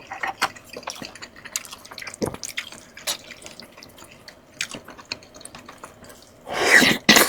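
Wet eating sounds close to the microphone: chewing and lip smacking in many small clicks, with a louder burst of eating noise near the end.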